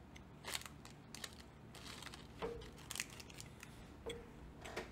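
Faint, irregular crunches of a mouthful of peanut-and-cashew granola bar being chewed.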